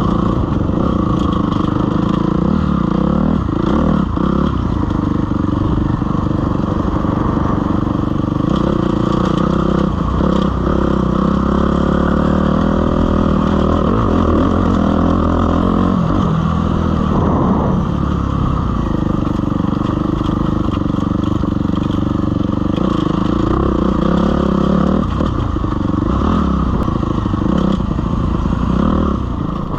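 Suzuki RM-Z250 dirt bike's single-cylinder four-stroke engine running under way, its pitch rising and falling with the throttle and dipping then climbing again about halfway through.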